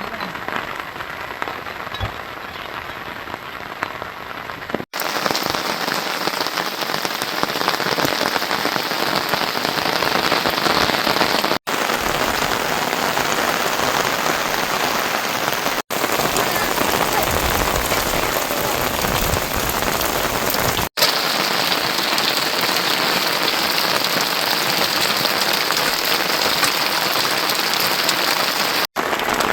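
Heavy rain falling as a steady, dense hiss. It drops out for an instant five times, about every four to seven seconds.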